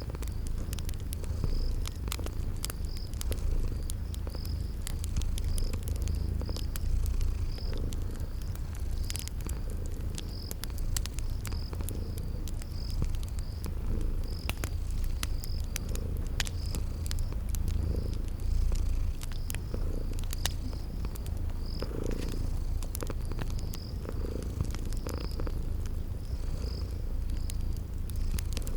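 Cat purring steadily in a low rumble, layered with a cricket chirping at an even pace and a fire crackling in scattered pops.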